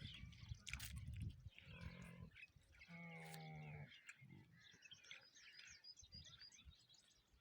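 Farm animals calling: low grunting at the start, then one drawn-out, steady-pitched call about three seconds in. Birds chirp in the second half.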